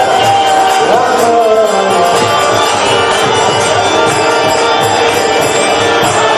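Devotional kirtan music: voices singing a chant over jingling hand percussion, steady and loud.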